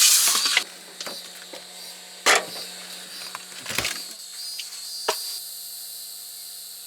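Crickets chirping steadily in the night, with a short rustling burst at the start and three sharp clicks or knocks spread through the middle.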